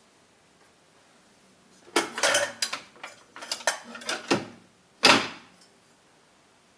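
Household items being handled: a quick run of clatters and knocks starting about two seconds in, then one louder knock with a short ring-out about five seconds in.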